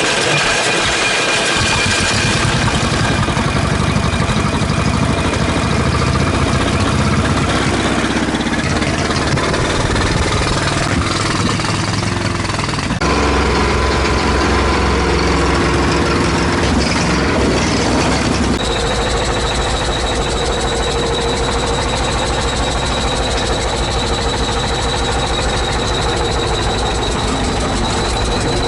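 ChTZ T-170 bulldozer's diesel engine starting: it catches about two seconds in and then runs at a steady idle, its note shifting a couple of times.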